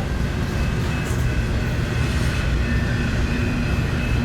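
Union Pacific double-stack intermodal freight train rolling past: a steady, loud rumble of wheels on rail, with faint high ringing tones above it.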